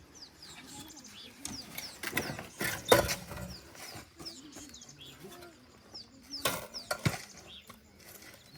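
Small birds chirping in short, falling notes throughout, with a few sharp knocks or clatters about three seconds in and again near seven seconds.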